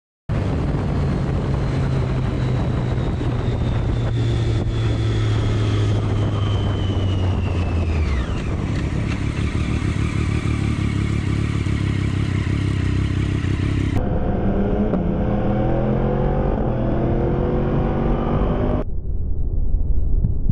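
Motorcycle engine running under way with road and wind noise, and a whine that falls in pitch over several seconds. About fourteen seconds in the sound cuts abruptly to an engine rising in pitch again and again as it revs up, and it changes again near the end.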